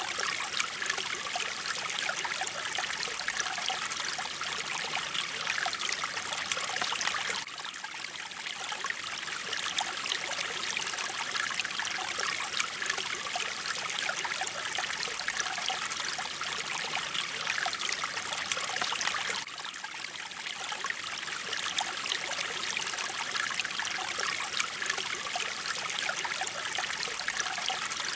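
Mountain stream running and trickling, a steady flow of water. There are two brief drops in level, about twelve seconds apart.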